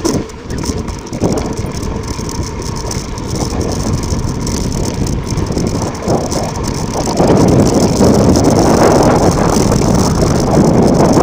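Mountain bike descending at speed over rough, loose volcanic ground: a continuous rumble of tyres on the surface, with the bike rattling. The noise grows louder about seven seconds in.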